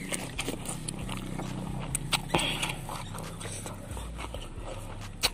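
Close-miked chewing and wet mouth sounds of a person eating rice cake with spicy sambal by hand: scattered lip smacks and clicks, a short breathy hiss about two and a half seconds in, and a sharp click near the end.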